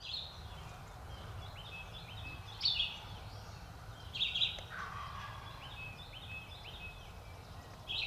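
Birds calling over a steady low background rumble: many short, repeated high notes, louder around three and four seconds in, with a lower, falling call just before five seconds that fits an eastern wild turkey gobble.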